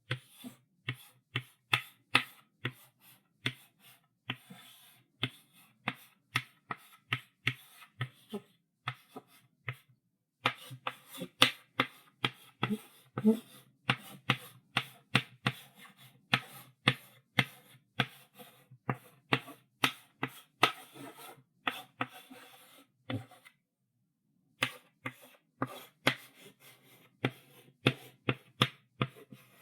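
Chalk writing on a chalkboard: quick taps and short scratchy strokes, several a second, with brief pauses about nine seconds in and near twenty-four seconds.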